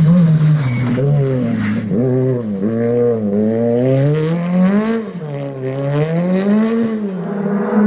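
Ford Fiesta R5 rally car's turbocharged 1.6-litre four-cylinder engine driven hard: the revs climb and drop back again and again, about once every second or so, through gear changes and throttle lifts. The sound fades near the end.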